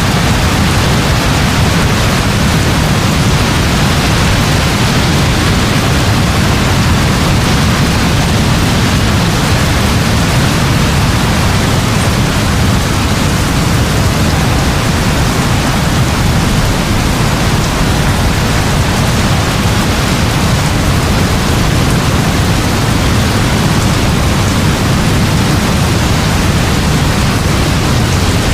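Heavy rain falling steadily: a constant even hiss with a strong low rumble beneath it, and no separate claps or strikes.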